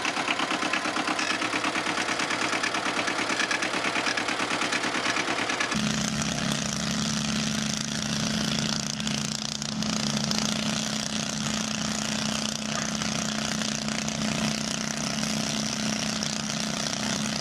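A vehicle engine running with a fast, even pulse. About six seconds in, an abrupt cut switches to a different engine running with a steady low hum.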